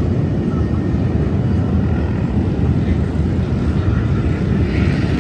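Many motorcycle engines running together in a steady, loud low rumble.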